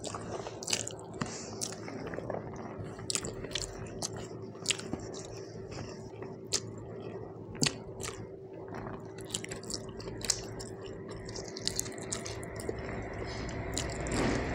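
Close-miked chewing of a mouthful of rice and curry, with irregular wet smacks and clicks of the lips and tongue. Fingers squish and mix soft rice on a banana leaf.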